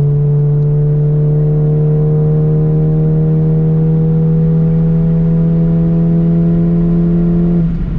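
Stage 2 tuned VW Golf 7 GTI Clubsport's turbocharged 2.0-litre four-cylinder pulling hard under acceleration, its note rising slowly and steadily, heard from inside the cabin. Just before the end the note breaks off and settles slightly lower.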